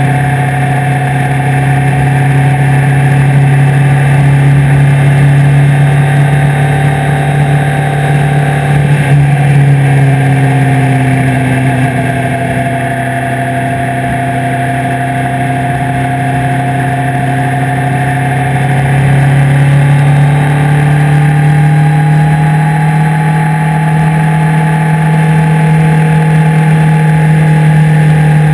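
Suzuki Hayabusa's inline-four engine running steadily at cruising speed, with a constant rush of wind and road noise. The engine note dips slightly about nine seconds in and climbs back up around twenty seconds in.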